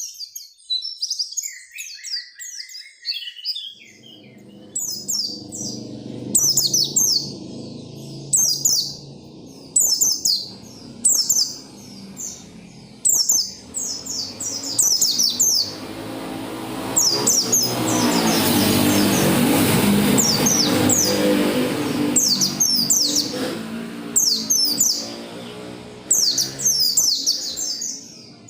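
White-eye (pleci) singing: short, very high-pitched, fast chattering phrases repeated every second or two, over a low steady background that starts about four seconds in and swells into a louder hiss for a few seconds in the middle.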